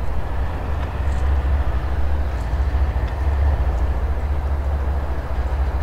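Approaching diesel locomotive, a steady low rumble.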